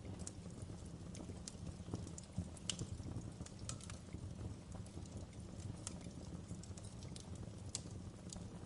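Wood fire burning in a fireplace, crackling with many sharp, irregular pops and snaps over a steady low rush of the flames.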